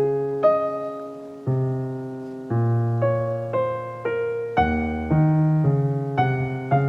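Soft piano background music: a slow, gentle melody with a new note struck about every half second to second, each left to ring and fade.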